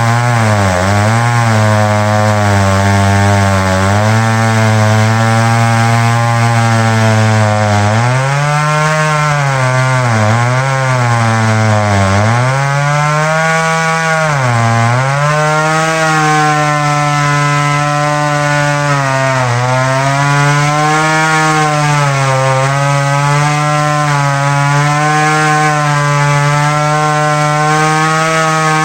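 Chainsaw running at full throttle, cutting dead ash. Its engine pitch dips sharply several times as the chain bogs down in the wood, then holds steady.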